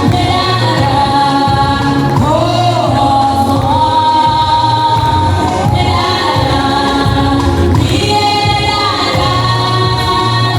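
Choir singing a gospel song, with sustained sung notes over a steady musical backing.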